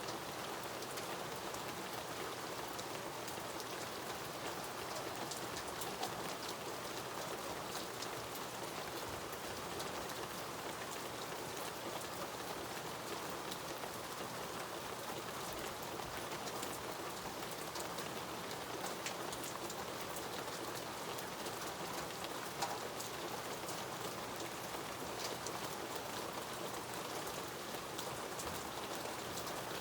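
Steady rainfall with individual drops ticking here and there.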